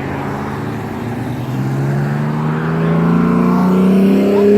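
Nearby road vehicle's engine accelerating, its pitch rising and growing louder from about a second in.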